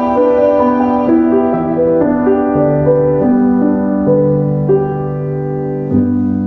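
Background music: a slow, gentle melody played on piano, with a low chord struck near the end and left ringing.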